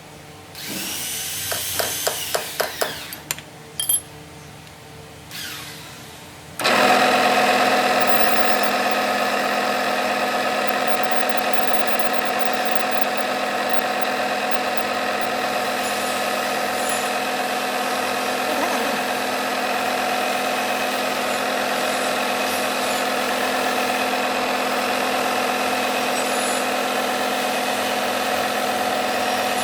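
A workshop machine switches on abruptly about seven seconds in and runs at a steady pitch, after a short burst of tool noise and a run of quick clicks.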